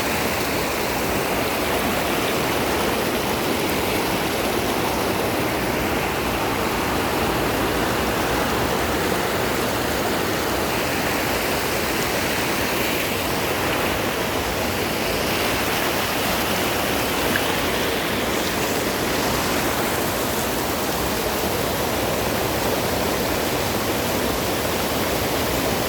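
Steady rush of flowing water, an even unbroken hiss.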